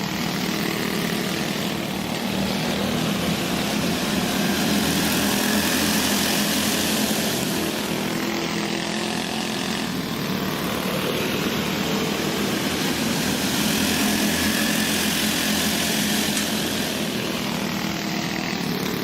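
Several racing go-kart engines running hard together around a dirt oval track, a continuous buzzing drone that slowly swells and fades as the karts come past.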